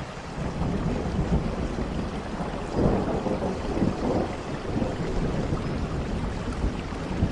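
Steady rain with low rolling thunder that builds as it begins and swells loudest about three seconds in.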